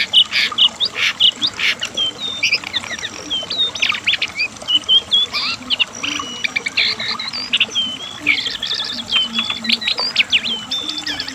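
Cingcoang coklat (jongkangan) singing: a fast, unbroken run of short whistled notes that slide up and down.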